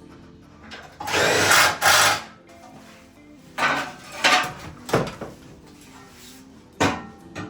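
A power tool run in several short bursts, the longest lasting about a second, over background music.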